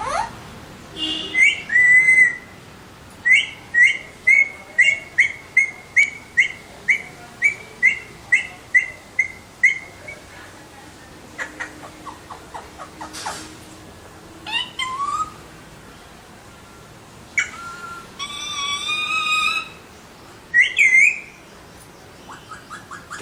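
Alexandrine parakeet calling: a run of about fifteen short, repeated whistled notes, roughly two a second, then a few louder, longer calls near the end.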